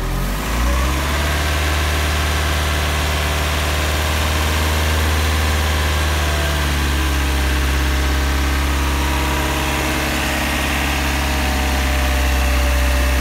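2007 Toyota Yaris engine idling steadily, heard at the open engine bay.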